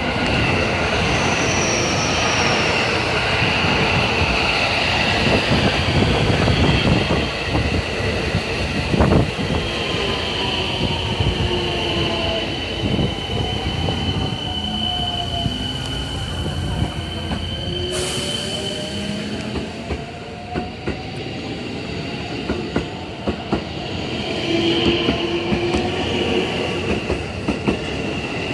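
JR West 223 series 1000 subseries electric multiple unit departing. Its traction motors whine in tones that slide up and down in pitch as it gathers speed, over steady running rumble and wheel knocks on the rail joints.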